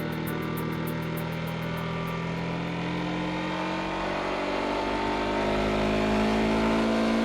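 Sportbike engine pulling under acceleration, its note rising steadily in pitch over the last few seconds.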